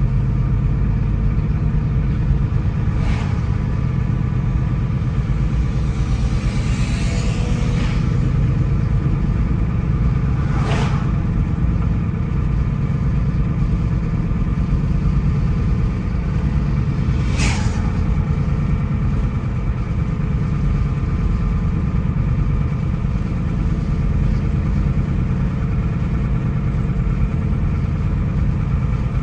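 Steady engine and tyre drone of a car driving on the road. There are brief sharp ticks about 3, 11 and 17 seconds in, and a short rushing whoosh around 7 seconds.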